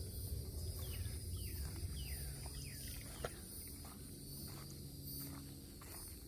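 Outdoor birdsong and insects: a bird gives a quick series of short falling whistles in the first three seconds, over a steady high insect trill and a low rumble.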